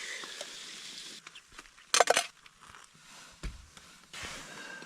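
Scallops sizzling in butter and garlic in a pan over an alcohol burner: a steady hiss that fades after about a second and comes back near the end, with a brief sharp sound about two seconds in.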